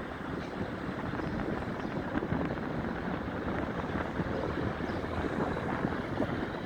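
Wind buffeting the microphone, a fluctuating rumbling hiss that grows slightly louder toward the end.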